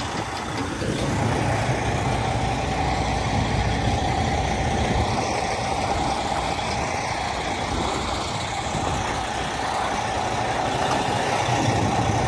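Semi truck's diesel engine running steadily at low revs, with a steady higher hum over the rumble.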